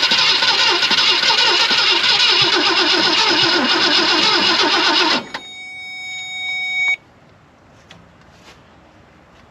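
Starter cranking the 1965 Thunderbird's 390 V8 in a steady rhythm for about five seconds without it catching, then cutting off; the engine is getting no fuel from its fuel pump. A steady electronic tone carries on for a moment afterwards.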